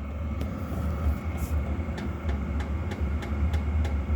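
Diesel heater fuel dosing pump ticking about three times a second, each tick sharp and even, over a steady low hum. The pump is sitting down on its mount, which carries the ticks into the vehicle body and makes them loud.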